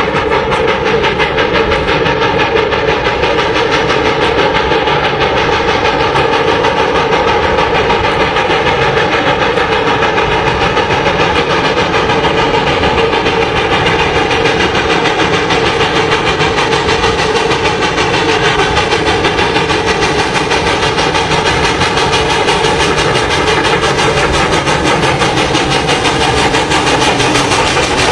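A train running, loud and steady, with a dense, rapid, even rhythm that does not let up.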